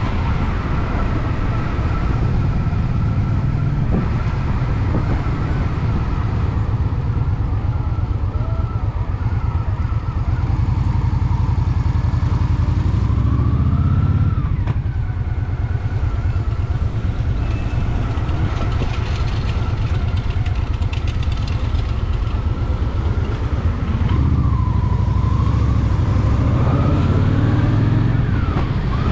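Honda Shadow VT750 V-twin engine running under way, mixed with heavy wind noise rushing over the rider. The engine pitch rises twice, about halfway through and near the end, as the bike accelerates.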